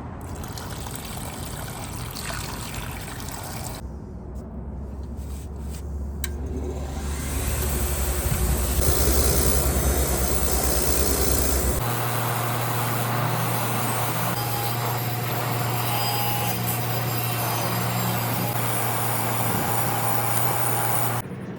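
A motor-driven tool running steadily with a rough rubbing, scraping noise over a low hum. About halfway through the sound switches abruptly to a steadier, higher-pitched hum, and it switches again just before the end.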